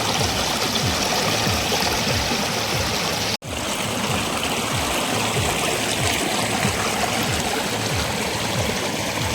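A small stream flowing gently over rocks: a steady rush of water with low gurgles. It breaks off for an instant about three and a half seconds in, then carries on.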